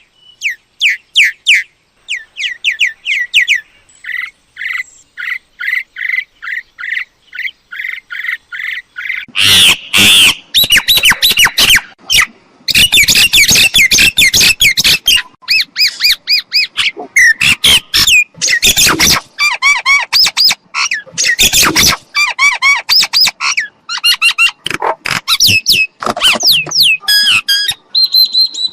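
Myna calling: a quick run of short falling whistled notes, then from about nine seconds in, louder, rougher squawking and chattering calls in rapid series.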